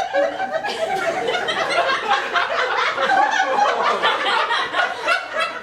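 A live audience laughing, many voices at once, keeping up through the whole stretch.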